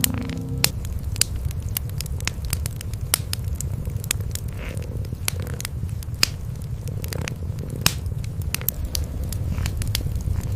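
Wood fire crackling in a fireplace, with frequent sharp irregular pops, over the steady low rumble of cats purring.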